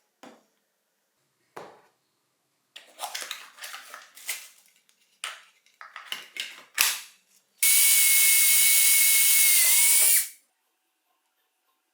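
Metal parts clink and scrape, then a handheld power drill runs at steady speed for about three seconds, its whine dipping briefly just before it stops.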